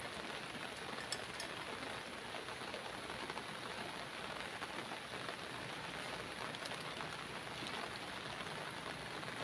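Steady rain falling on leaves and grass: an even hiss with a few faint drips.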